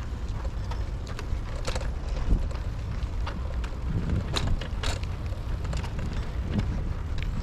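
Bicycle riding along with wind buffeting the microphone, a steady low rumble and scattered clicks and rattles from the bike.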